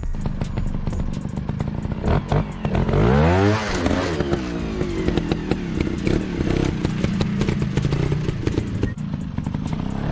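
Dirt bike engine running with a quick rev that rises and falls about three seconds in, over clattering and crackling.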